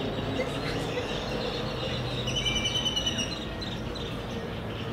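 Outdoor background noise with a short bird call about two and a half seconds in, lasting under a second.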